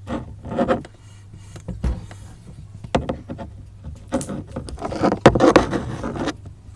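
Irregular clicks, knocks and rustling of things being handled close to the microphone.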